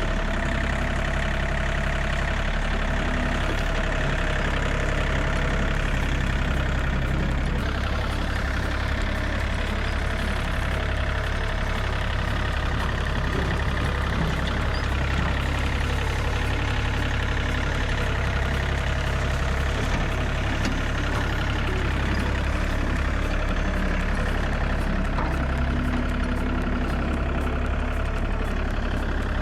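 John Deere 3320 compact tractor's three-cylinder diesel engine running steadily.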